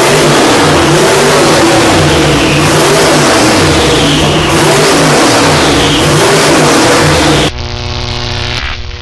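Twin-turbocharged 515 cubic inch big-block V8 in a 1957 Chevy revving hard and loud, its pitch rising and falling between blips. About seven and a half seconds in it cuts to a quieter, steadier engine note.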